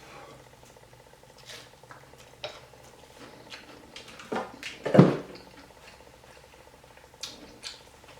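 Eating-table sounds: scattered light clicks and taps of plate and cutlery as fried fish is handled, with a louder knock about five seconds in.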